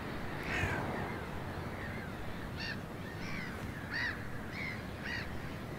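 Birds calling at an elk carcass: about half a dozen short, harsh, arched calls spaced through the few seconds, over a steady background noise.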